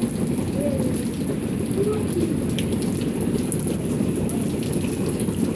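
Steady rain falling, an even hiss of water with sharp drop ticks scattered through it.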